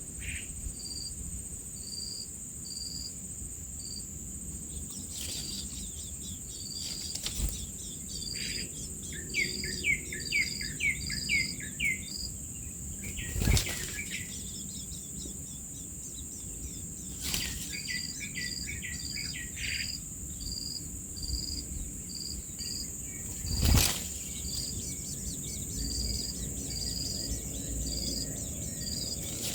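Steady high drone of insects, with a short chirping note repeating about twice a second. Twice, a run of rapid falling bird calls breaks in. Two sharp knocks come in the middle and later on.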